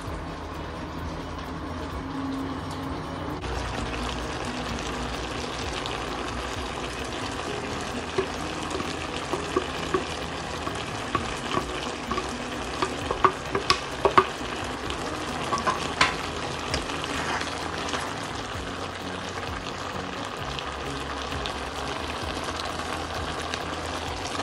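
Beef tripe sizzling in a hot steel pot as it is stirred, with a wooden spoon knocking sharply against the pot in a string of clicks through the middle.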